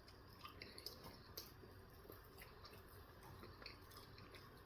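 Faint mouth sounds of someone chewing a bagel breakfast sandwich: a scatter of small soft clicks against near silence.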